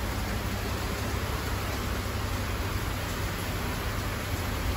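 Steady hiss of rain falling, with a low hum underneath.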